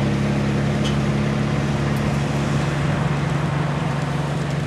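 A vehicle engine running steadily, a low hum of several held tones whose pitch shifts slightly about two and a half seconds in.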